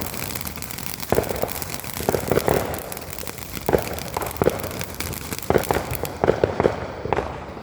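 A consumer firework still going off: dense, continuous crackling with irregular louder pops.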